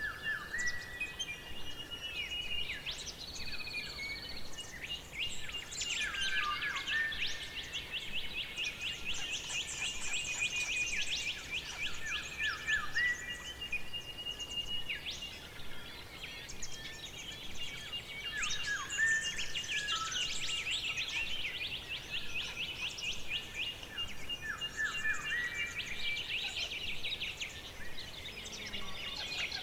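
Forest birds singing together, many overlapping songs of rapid trills, chirps and short falling whistles, with a thin steady high note running under them.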